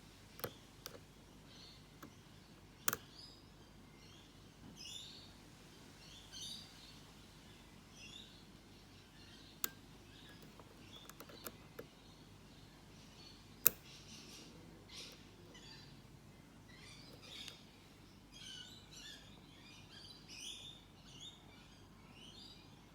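Lock pick working the security pins of a Mako padlock under light tension, giving scattered sharp clicks, the loudest about 14 s in; the clicks come from the ill-defined serrations on the security pins. Faint high chirping runs alongside.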